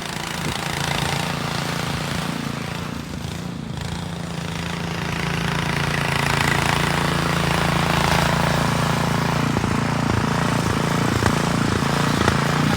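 An engine running steadily under a broad hiss, getting louder about six seconds in.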